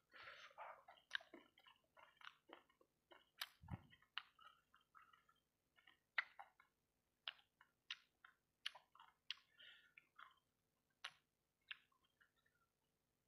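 Close-miked chewing of fried rice balls in sauce: an irregular run of short wet smacks and sharp mouth clicks.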